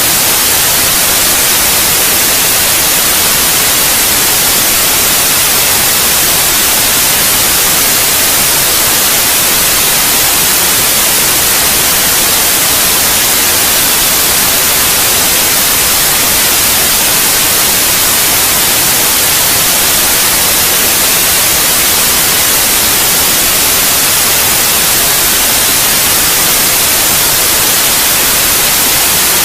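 Steady white noise: an even, loud hiss that does not change.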